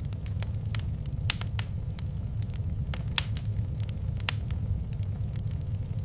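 Wood fire crackling in a fireplace: irregular small pops and snaps over a steady low rumble, with three sharper pops about a second, three seconds and four seconds in.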